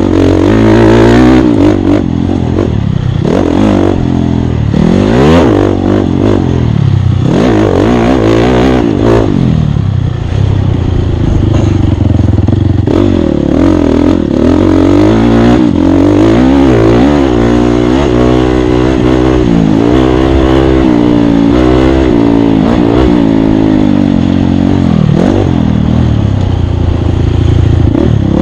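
Off-road dirt bike engine revving hard under racing load, its pitch climbing and dropping over and over as the throttle opens and closes, with knocks and clatter from the bike over rough ground.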